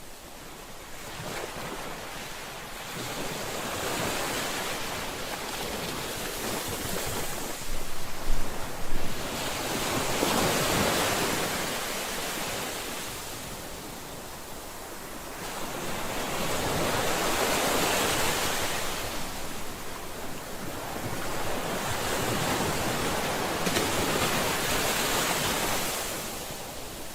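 Ocean surf: waves breaking and washing up the shore, each swell rising and fading about every six to seven seconds, with a brief louder crash about eight seconds in.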